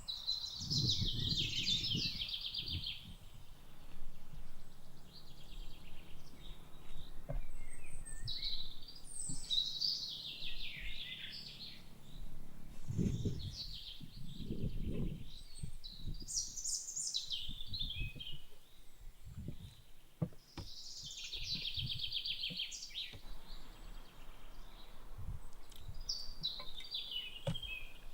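Wild songbirds singing, a run of short warbling phrases every few seconds, with occasional low thuds and rumbles underneath.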